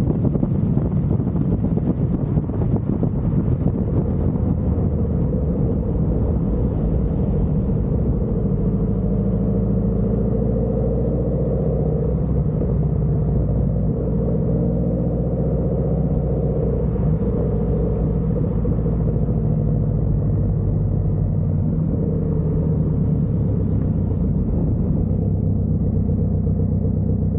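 2012 Subaru WRX's EJ255 turbocharged flat-four running through a muffler-deleted exhaust: a steady low exhaust rumble. It is rougher and noisier for the first few seconds, then settles into an even drone.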